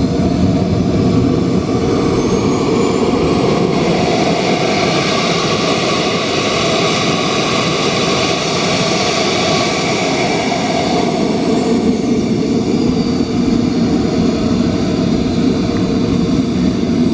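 An RC scale jet model's small turbine engine running loudly, its high whine climbing in pitch over a few seconds, holding high, then falling back and settling: the turbine spooling up under throttle and then throttled back.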